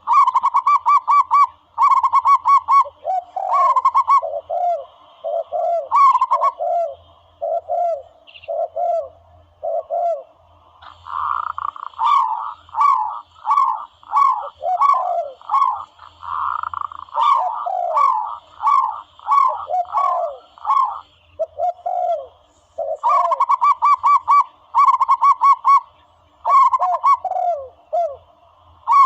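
Zebra doves cooing: quick runs of short staccato coos alternate with lower, falling coos, over and over, as a recorded lure call.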